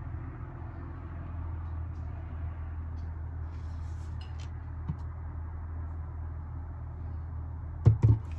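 Polaris PHD 2600ACi hair dryer running with a steady low hum, with two sharp knocks close together near the end.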